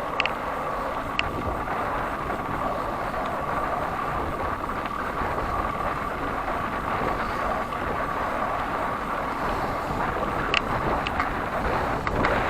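Wind noise on the microphone and road noise while riding a bicycle, steady throughout, with a few sharp knocks near the start and again towards the end.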